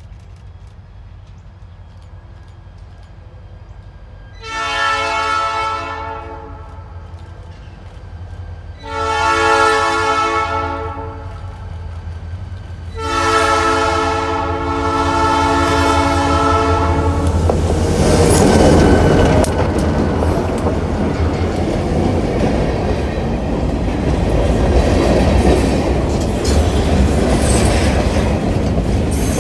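Diesel freight locomotive sounding its horn in three long blasts as it approaches, its engine rumbling underneath. A little past halfway the locomotive passes close by, and a string of covered hopper cars follows, rolling by with steady wheel-on-rail clatter.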